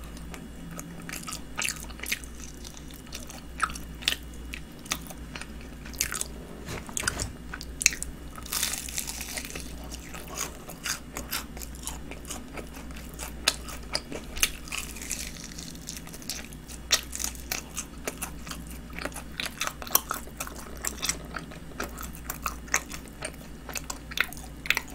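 Close-up eating sounds: a mouth biting and chewing honey-glazed fried chicken, with many small sharp crunches and clicks from the coating and a longer stretch of crunching about nine seconds in.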